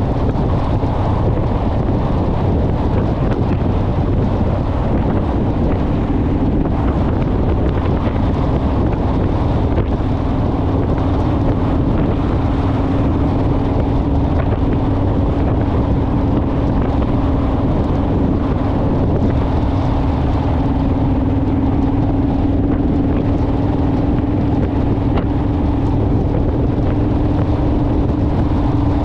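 Honda Rebel motorcycle engine running at a steady cruising speed, with heavy wind noise on the microphone.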